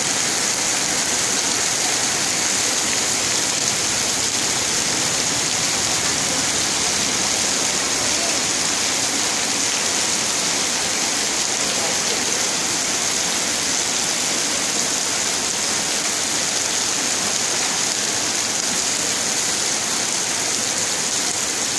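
Heavy rain pouring down onto wet pavement, a steady, even hiss that holds at the same level throughout.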